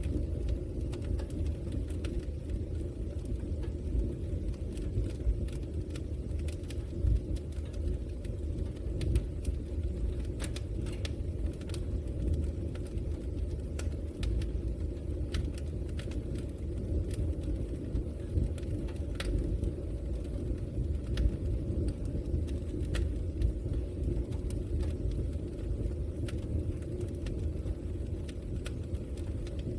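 Log fire burning: a steady low rumble with scattered sharp crackles and pops.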